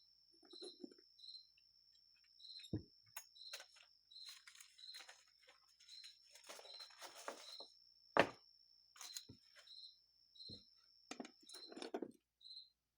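A cricket chirps steadily about every half second, over a thin high whine that stops near the end. Over it come scattered clicks, knocks and rustling from small parts being handled on a workbench, with one sharper knock about eight seconds in.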